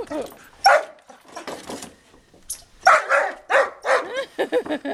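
A dog barking and yipping, with short whines between, at a chipmunk it is hunting: one bark about a second in, then a quick run of barks and whines from about three seconds on.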